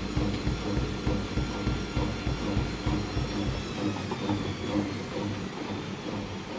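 Washing machine running: a steady motor hum over a fast, low, rhythmic pulsing that drops away a little past halfway, leaving the hum.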